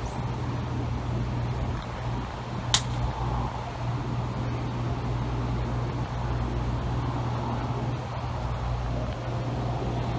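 Steady low outdoor rumble with an even hum underneath, broken by one sharp click just under three seconds in.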